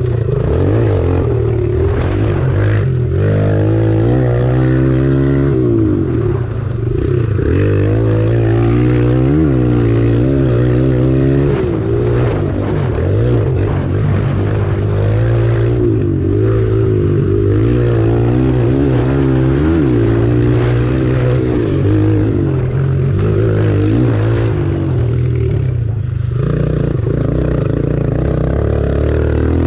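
Small single-cylinder pit bike engines racing, their pitch rising and falling over and over as the riders rev up and back off, over a steady low drone.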